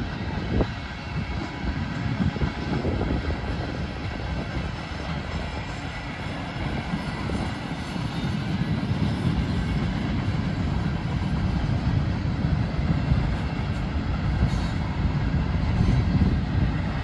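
A mixed freight train's tank cars and boxcars rolling past, steel wheels on rail making a steady rumble and rattle that grows somewhat louder toward the end.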